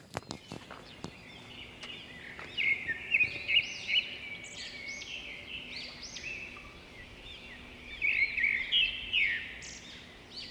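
Several wild birds chirping and calling in quick, repeated arching notes, with two louder spells about two and a half seconds in and again about eight seconds in.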